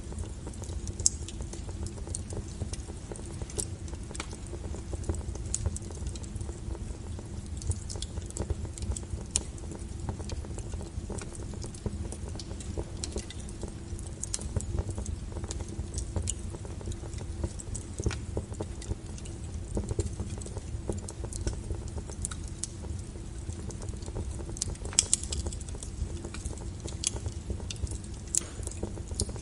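Wood fire crackling, with irregular sharp pops and snaps over a steady low rumble of burning, and a couple of louder pops about a second in and near the end.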